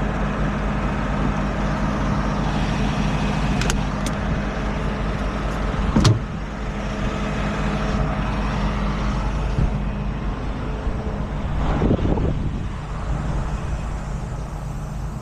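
Tow truck's engine idling steadily, with a few sharp clicks and a louder knock about six seconds in.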